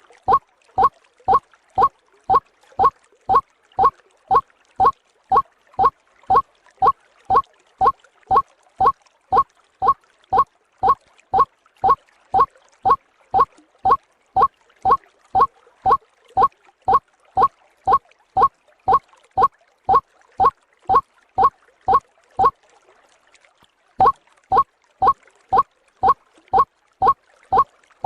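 White-breasted waterhen (ruak-ruak) call played as a bird lure: a steady run of identical loud "kru-ak" notes, about two a second, with one short pause near the end before the notes resume.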